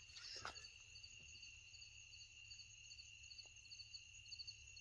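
Faint chorus of crickets at night: a steady high trill with a higher chirp repeating about three times a second.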